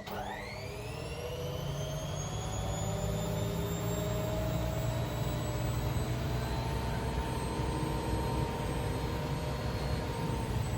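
Washing machine spinning up fast: the motor's whine rises quickly in pitch at the start, then levels off into a steady high-speed spin over a heavy low rumble from the drum.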